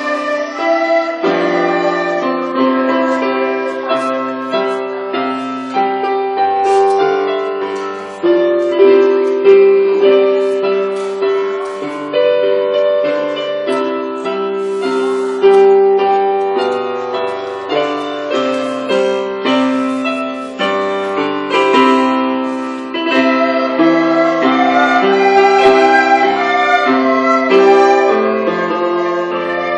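Piano music: a run of struck notes and chords, each note dying away after it is struck.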